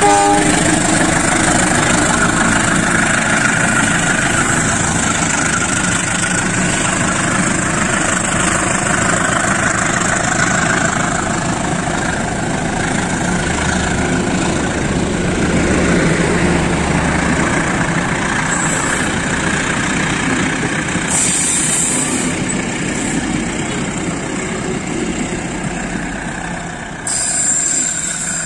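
A diesel-hauled passenger train pulling slowly away from a station, its coaches rolling past with steady wheel-on-rail noise over the diesel locomotive's engine. There is a brief louder burst of noise near the end as the last coach goes by.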